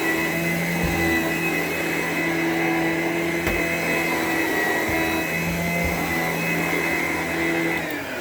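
Upright vacuum cleaner running steadily over carpet, a loud motor whine with a rushing airflow hiss. Near the end its whine falls in pitch as the motor winds down.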